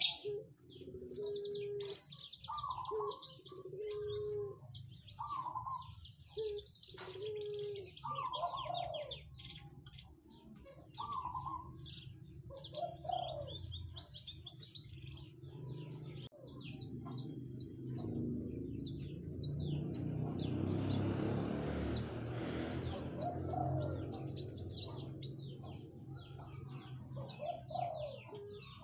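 Bird song: fast, high twittering chirps over repeated short low notes, every second or two, that rise and fall. A rushing noise swells and fades in the middle.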